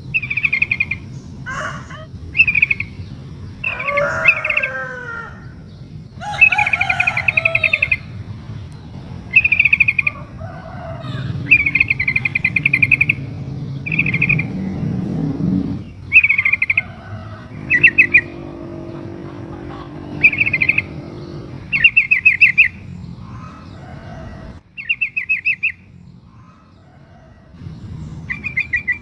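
Yellow-vented bulbul (trucukan) calling in short, rapid chattering phrases repeated every second or two, given as a female calling to draw a male's reply, over a low steady rumble.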